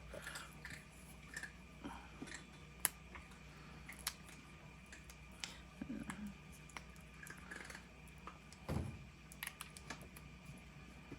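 Cured epoxy resin pieces being popped out of a flexible silicone mold: faint, scattered clicks and crackles as the mold is worked, with one soft thump about nine seconds in.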